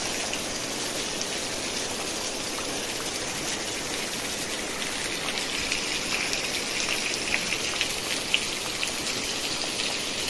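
Heavy rain falling steadily, an even hiss with sharper drop taps now and then, more of them in the middle.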